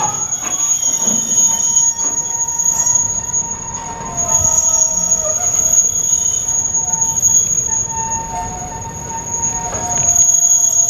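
Freight wagons of a container train rolling slowly past as the train brakes to a stop, with steady high-pitched squeals from wheels and brakes that come and go over a low rolling rumble.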